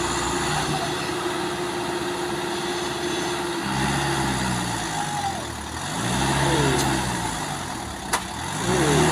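Truck diesel engine holding a steady drone, then revving up and down in repeated surges about every two and a half seconds, as a truck stuck on a muddy climb fails to move. A single sharp click comes near the end.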